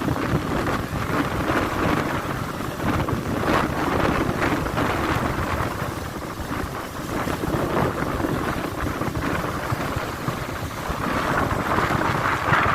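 Strong gusty wind, about 60 km/h, buffeting the microphone with a continuous rushing noise that swells and eases, dipping slightly around the middle and rising again near the end.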